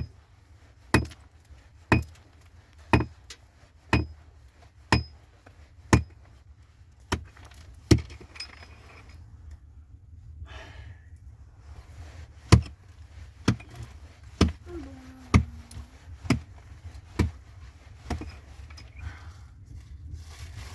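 A hand tool striking a hard surface over and over, about once a second, in steady blows. The blows pause for a few seconds midway and then start again.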